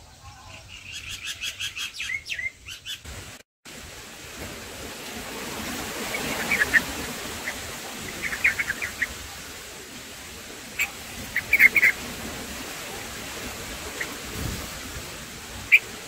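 Bulbul chirps: a rapid run of high chirps in the first few seconds, then short clusters of chirps every few seconds over a steady background hiss.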